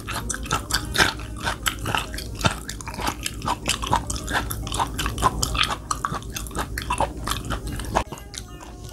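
Close-miked chewing of raw chicken gizzard: a steady run of quick wet clicks and smacks in the mouth, easing off near the end.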